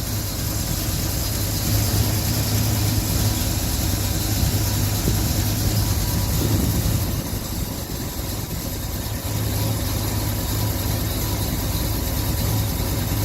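1969 Pontiac GTO Judge's 400 cubic inch V8 idling steadily.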